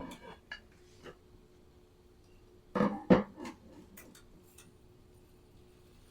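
Kitchenware clattering during cooking: a few light knocks and clinks, then a louder clatter of two sharp knocks about three seconds in, and a few small clicks after.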